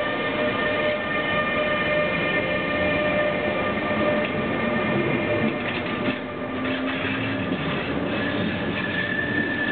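ÖBB Taurus electric locomotive and its double-deck car-carrier wagons rolling slowly past: a steady rumble of wheels on rail, with several high whining tones held for seconds over it.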